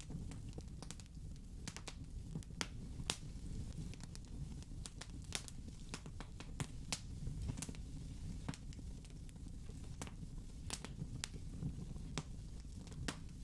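Wood fire crackling in a fireplace: irregular sharp pops and snaps, a few of them louder, over a steady low rumble of the burning fire.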